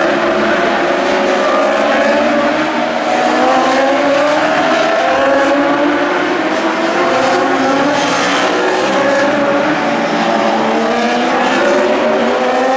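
Superbike road-racing motorcycles running at full throttle, engine notes climbing in pitch and dropping back with each gear change, several bikes overlapping.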